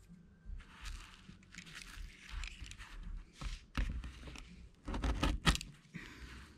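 Carpet being worked by hand on a boat hatch lid: uneven scraping and rustling as the excess is trimmed and pressed down. A cluster of sharp clicks and low knocks comes around the middle.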